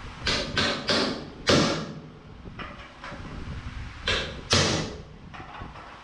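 Hammer blows in a shop, sharp strikes each with a short ring: a quick group of four in the first second and a half, then two more about four seconds in.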